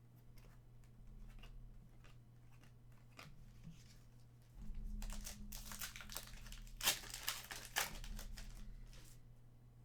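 Plastic trading-card pack wrapper crinkling and tearing as it is opened and handled, with a few sharper clicks in the second half.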